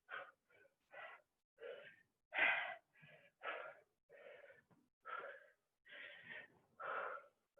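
A person panting hard, with short rasping breaths about twice a second, out of breath from doing burpees.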